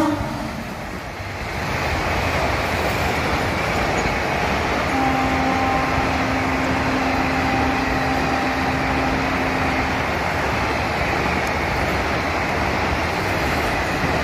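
Steady rumble of a passenger train's coaches rolling along the rails, with a faint held tone for a few seconds in the middle.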